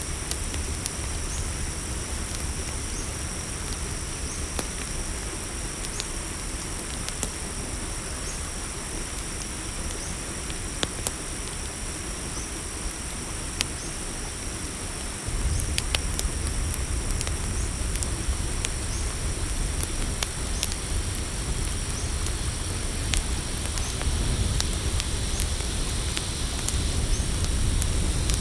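Campfire crackling with scattered sharp pops over a steady high chorus of crickets. A low rumble underneath gets suddenly louder about halfway through.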